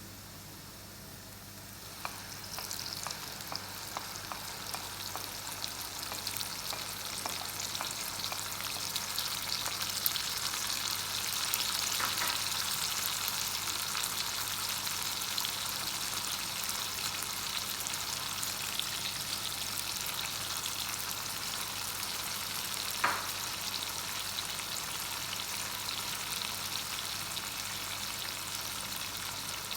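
Food sizzling and crackling in hot oil in a cooking pan. The sizzle starts abruptly about two seconds in and builds, with one sharp click near the end.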